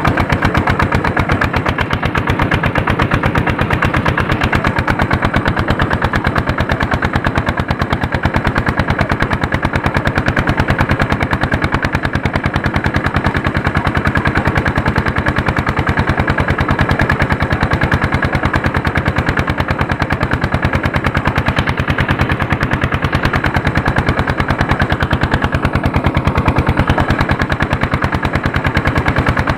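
Andoria 1HC102 single-cylinder diesel engine running steadily under load while pulling a harrow, with a rapid, even train of exhaust beats.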